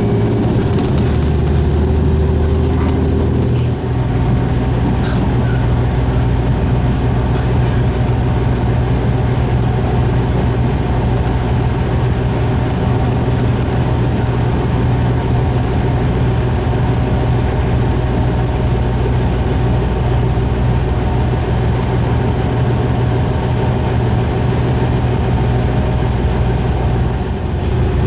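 Diesel railcar's engine running steadily under way. Its note dips briefly and changes about four seconds in, and dips again near the end.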